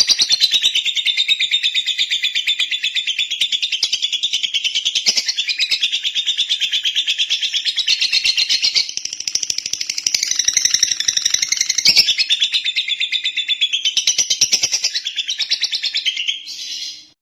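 Lovebird singing a long, unbroken run of rapid high chirps, which stops abruptly near the end.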